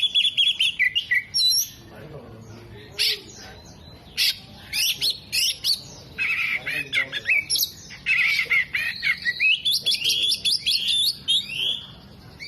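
Oriental magpie-robin (kacer) singing loudly: a fast, varied run of chirps, trills and whistled glides in bursts, with a short lull about two seconds in. The song is a mimicking one, worked with imitations of sunbird, jenggot and lovebird calls.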